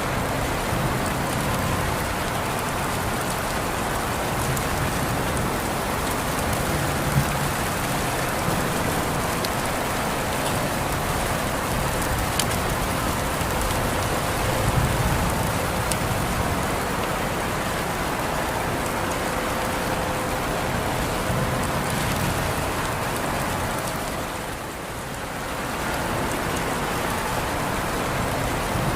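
Steady rain falling and pattering on surfaces, with scattered individual drops ticking through the even hiss. It eases briefly for a moment near the end, then comes back.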